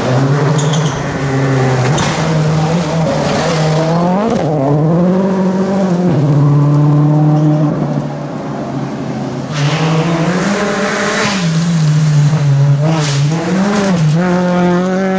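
Rally car engine running hard at high revs, its pitch dipping and rising repeatedly as the driver works the throttle. Hissing tyre noise comes in over it at the start and again about ten seconds in.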